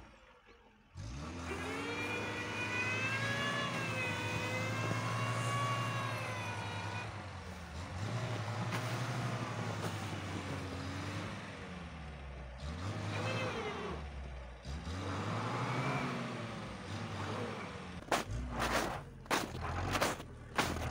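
Rear-drive VAZ-2104's engine revving up and down from about a second in, its pitch rising and falling several times as the rear wheels spin in snow. Near the end comes a rapid run of short sharp noises.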